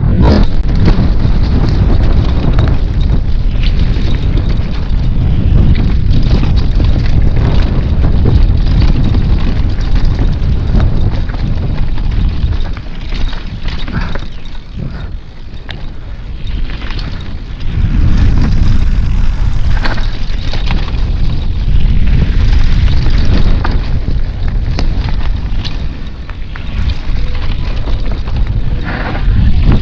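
Wind buffeting a mountain biker's camera microphone while the bike rattles and knocks over a rocky trail. It eases off for a few seconds about halfway through, then picks up again.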